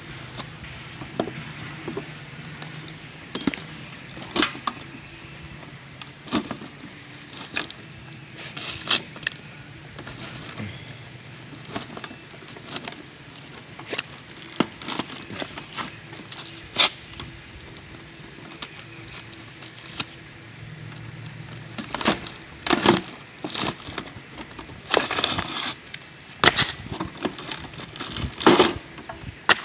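Irregular knocks, clicks and scraping from hand work on an old shingle roof around a roof vent, busier and louder in the last several seconds, with a low hum underneath at times.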